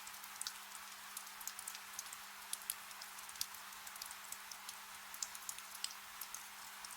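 Soft steady rain: an even hiss with many separate drops ticking sharply, several a second.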